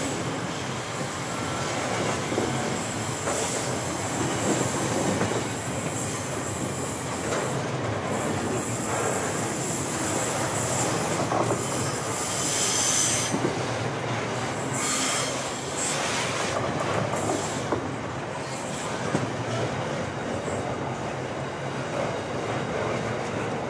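Long string of SCT freight box wagons rolling past on a curve: a steady rumble and clatter of wheels on rail, with high-pitched wheel squeal coming and going.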